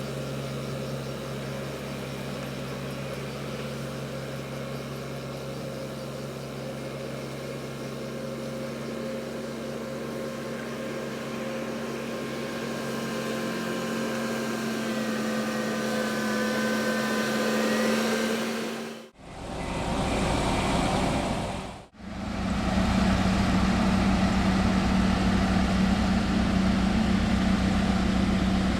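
Heavy construction machinery engine running steadily with a low, even hum. About two-thirds of the way through, the sound cuts off abruptly twice, a few seconds apart, and then comes back as a louder, deeper engine note.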